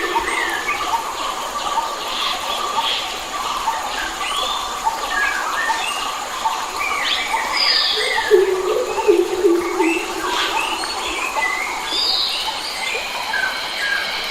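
A chorus of many wild forest birds chirping and whistling in quick overlapping calls, over a steady background drone. About eight seconds in, a lower-pitched call repeats a few times.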